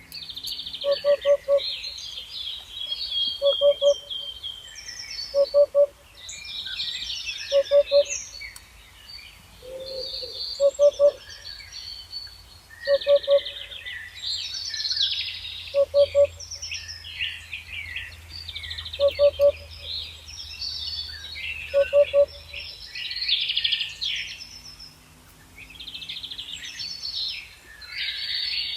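A chorus of songbirds chirping and trilling throughout, with a lower hooting call of two or three quick notes repeating every two to three seconds.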